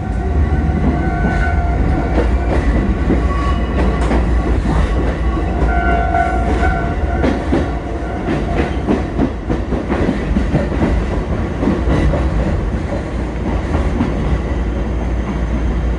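Four-car electric commuter train made up of Kotoden 1080 and 1100 series cars, running along the line. A steady rumble, with the wheels clicking repeatedly over rail joints and brief faint whining tones now and then.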